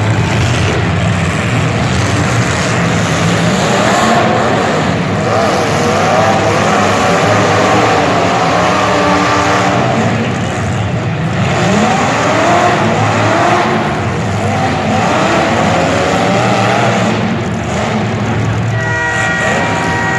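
Motor vehicle engines running, their pitch rising and falling as they rev over a steady low drone.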